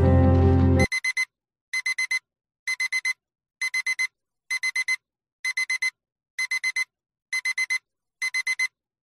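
Music stops abruptly about a second in and a digital alarm clock starts beeping: short, high electronic beeps in quick groups of four, about one group a second.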